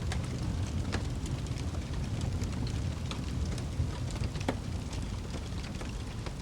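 Wood fire burning in a fireplace: a steady low rumble of flames with frequent small crackles and pops. Sharper pops stand out about a second in and past the middle.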